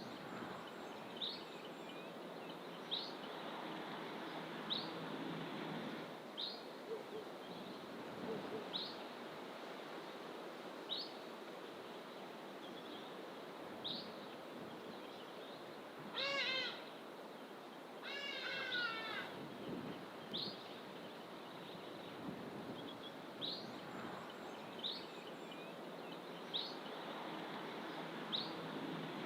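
Wild birds in fynbos bush: one bird repeats a short high note roughly every two seconds, and twice, about two-thirds of the way in, a louder drawn-out mewing call falls in pitch, over a steady background rush.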